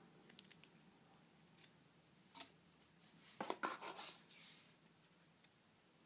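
Faint clicks and rustling of hands handling the packaging of a plastic phone case, with a short burst of louder crinkling and clicks about three and a half seconds in.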